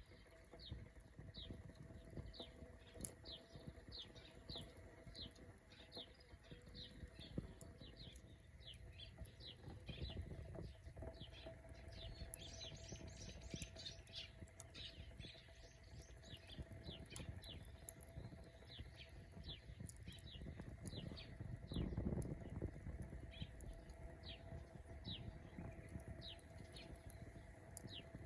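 A bird calling, a short falling chirp repeated about twice a second, over a faint low rumble.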